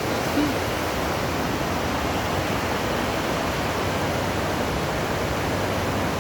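The swollen River Ebbw in flood, its fast-flowing water rushing in a steady, even noise.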